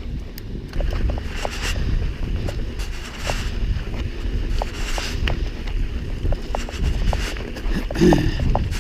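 Giant Trance full-suspension mountain bike rolling along a dirt trail: a steady rumble of tyres and wind on the microphone, with frequent small clicks and rattles from the bike and loose stones. A brief low squeak about eight seconds in.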